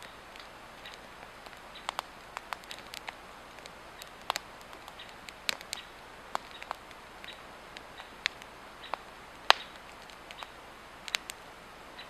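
Swedish torch log fire burning, with irregular sharp crackles and pops, the loudest about nine and a half seconds in, over a steady hiss.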